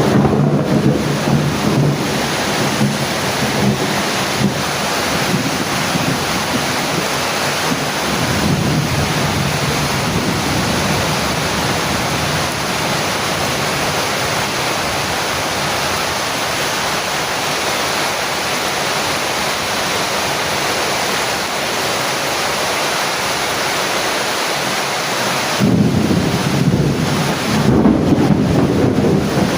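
Heavy rain falling steadily as a dense hiss. Low rumbles rise over it near the start, again around eight seconds in, and more strongly near the end.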